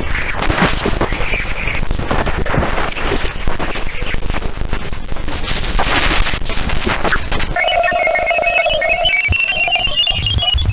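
A space sound recording of the kind played as a planet's sound: dense crackling static for about seven seconds, then warbling electronic tones, with a steady mid tone under high stepping chirps.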